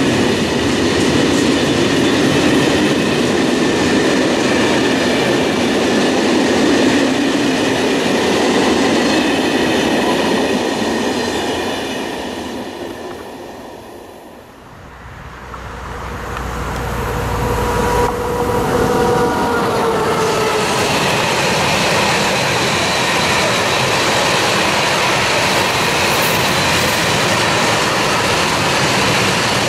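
A train of Corail passenger coaches passing at speed, wheels clattering over the rail joints, fading away just before the middle. A long freight train of hopper wagons then comes in, with a deep rumble and a short falling whine as its front goes by, and the wheels clacking steadily on the rails to the end.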